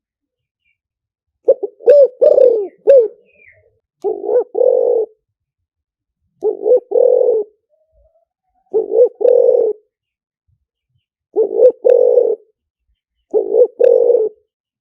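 Spotted dove cooing: a phrase of a short coo followed by a longer, rolling coo, repeated six times at intervals of about two seconds. The first phrase is longer, with several quick notes. This is the call used as a decoy to lure wild spotted doves.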